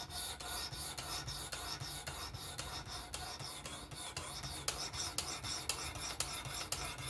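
Vosteed Acorn knife blade being stroked along a fine sharpening stone in a guided fixed-angle sharpener. Quick, even, light rasping strokes, a few per second, refining the edge bevel.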